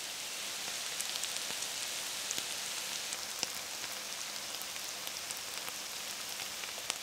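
Cauliflower rice, sausage and mushroom stuffing sizzling steadily in a skillet as it cooks down, a quiet even hiss with small scattered crackles.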